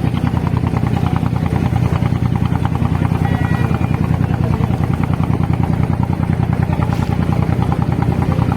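Abra water taxi's diesel engine running steadily under way, a loud, fast, even chugging.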